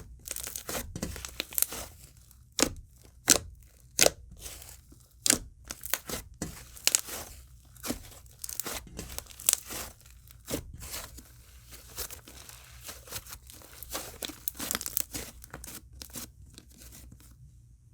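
Hands squishing and stretching a soft, stretchy icy slime (a clear glitter slime mixed with sizzly icy slime), giving an irregular run of crisp crackles and pops, several a second, that stops near the end.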